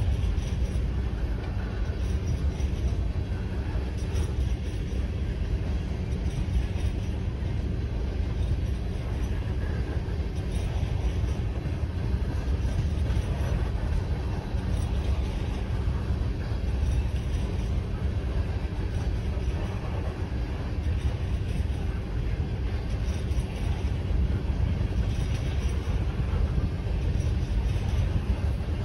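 Empty coal hopper cars of a freight train rolling steadily past at a grade crossing: a continuous low rumble of wheels on the rails with rattling from the empty cars.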